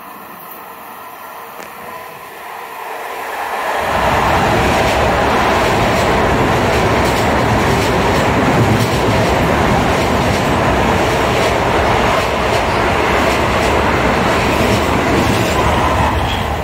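Long Island Rail Road electric multiple-unit passenger train running past close alongside the platform. Its noise builds over the first few seconds, holds loud and steady for about twelve seconds, then starts to ease off at the end.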